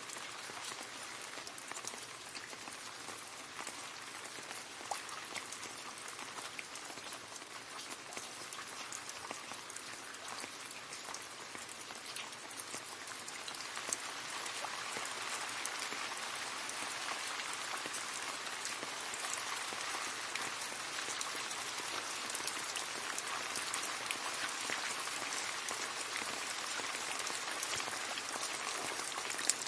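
Steady rain falling and splashing into a puddle, a dense patter of many small drops that grows a little heavier about halfway through.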